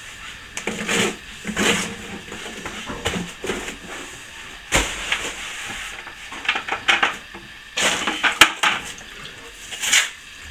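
Metal plastering trowel working wet sand-and-plaster on a wall: a run of irregular scraping and spreading strokes, with a few sharp clicks and taps near the end.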